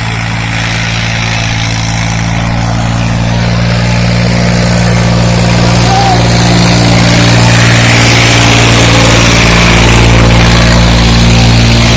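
Sonalika 35 tractor's diesel engine running steadily while pulling a single harrow, its drone growing gradually louder.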